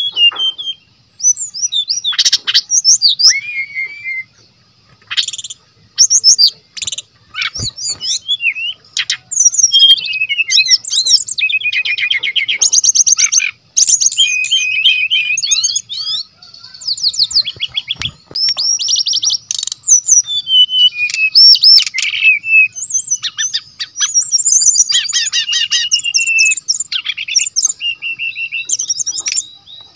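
Brown-chested jungle flycatcher singing energetically: a fast, varied stream of chirps, rapid trills and sweeping whistles, phrase after phrase with only brief pauses.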